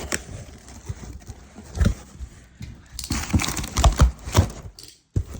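A parcel of supplies being unpacked by hand: rustling with scattered knocks and clicks, a thump about two seconds in, and a busy run of knocks and rustling from about three seconds in.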